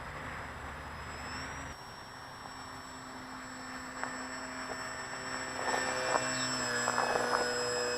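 Electric motor and propeller of a radio-controlled Crack Pitts foam aerobatic model plane in flight, a steady whine whose pitch shifts with the throttle and that grows louder in the second half. Several sharp clicks come in the second half.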